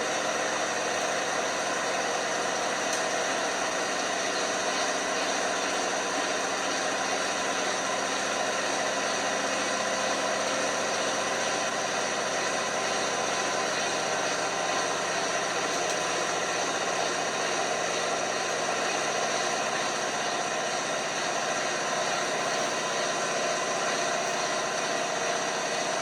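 LG washing machine running with a steady, even whir and hum that holds without change.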